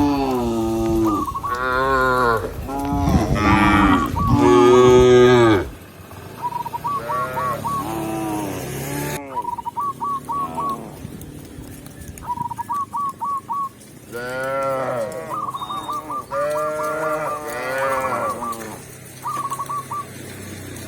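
Cattle mooing again and again, long calls that rise and fall in pitch, the loudest in the first six seconds. Between the moos come runs of short, high, repeated chirps.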